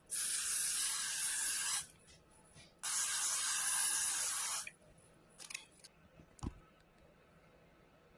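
Aerosol Got2b glued hair spray sprayed in two long blasts, each lasting under two seconds, to hold down the lace frontal. A few light rustles and a soft thump follow.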